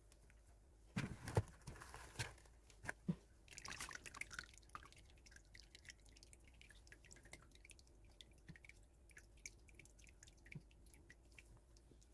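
Faint, irregular dripping of melted beeswax and water straining through a pantyhose filter, with a few louder knocks in the first three seconds.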